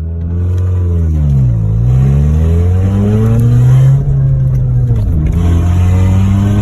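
2002 Audi A3's engine revving through its damaged exhaust, which has a massive crack in the muffler behind the catalytic converter. The pitch sags, climbs to a peak about four seconds in, drops sharply, then settles at a higher steady rev.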